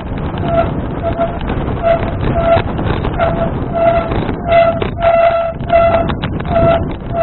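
A folding bicycle squeaking with a short pitched squeak that repeats about every two-thirds of a second while it is ridden, over a steady rush of wind and road noise on the action camera's microphone. The squeaks grow louder in the second half.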